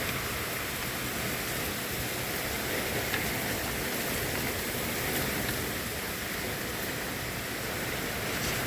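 Steady heavy thunderstorm rain, a dense even hiss with a few faint drop ticks.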